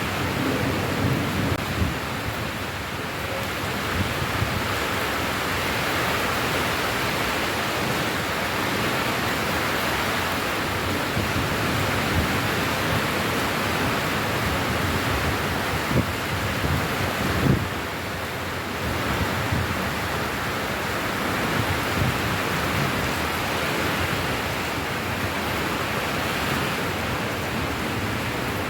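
Steady rain falling, an even hiss with scattered low patters and thuds; the loudest thud comes about 17 seconds in.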